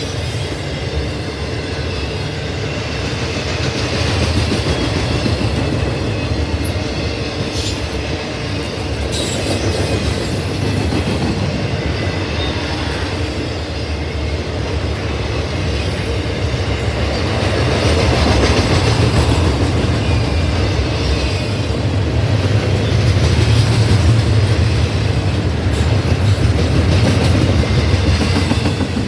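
Freight train rolling past close by: a steady rumble of steel wheels on the rails, with a faint high wheel squeal running through it.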